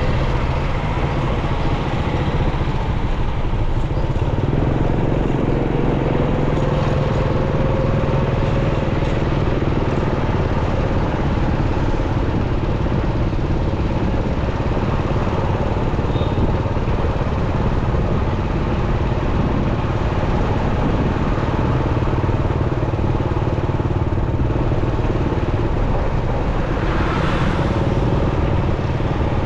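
Motorcycle engine running steadily while riding in city traffic, under road and wind noise. There is a slow rise in engine pitch early on, and a brief rushing swell of noise near the end.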